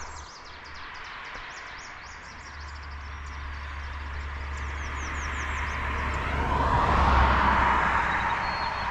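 A road vehicle passing by, its tyre and engine noise swelling to loudest about seven seconds in and then easing off. Small birds give rows of short, high, repeated calls over the first half.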